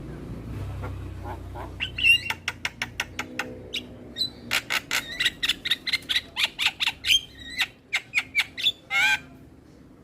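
Mynas (jalak starlings) calling: rapid runs of short, sharp chattering notes and squawks, with a harsher drawn-out call near the end.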